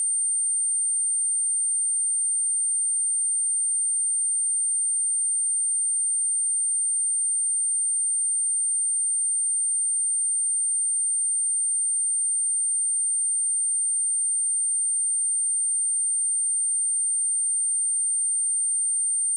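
A steady, high-pitched pure sine-wave test tone at 8884 Hz, held at a constant level throughout.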